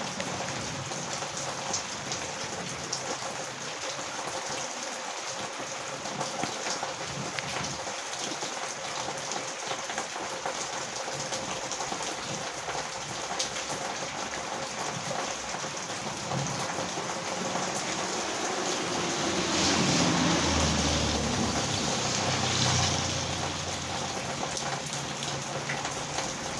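Heavy rain falling steadily on a village road, an even hiss of drops on the surface. About twenty seconds in, a louder low rumble swells and fades away.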